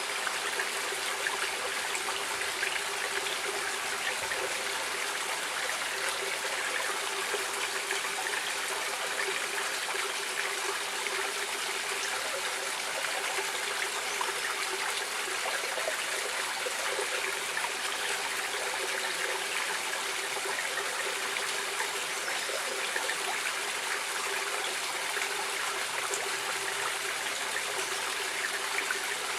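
Shallow stream flowing over rocks: steady running and trickling water.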